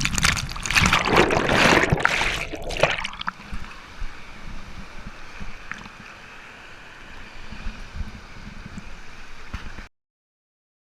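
Water splashing loudly for about three seconds at the bottom of a water slide, then settling to a quieter steady trickling of water; the sound cuts off suddenly near the end.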